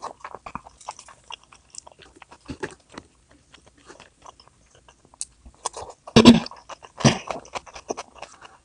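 Close-up chewing and biting sounds of a person eating, full of small wet mouth clicks and smacks, with two louder short bursts about six and seven seconds in.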